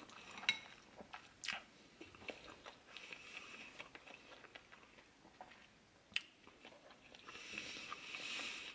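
Faint mouth sounds of a person chewing a mouthful of spicy instant ramen noodles, with a few soft clicks and smacks scattered through and a light breathy hiss near the end.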